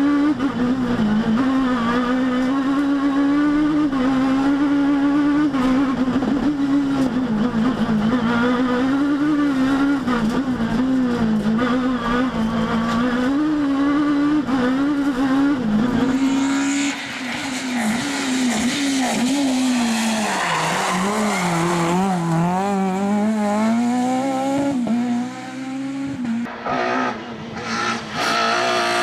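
Rally kit car engine running hard at high revs, its pitch rising and falling with throttle and gear changes. About halfway the sound turns a little quieter and a hiss of tyre noise comes in. Near the end there are several brief drops in level.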